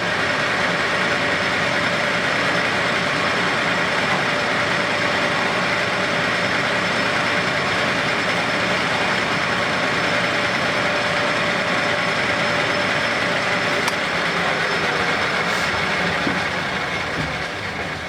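Electric shop machine running steadily with a dense whirring noise and a steady hum-like tone. Its motor spins up just before, and the sound eases off near the end.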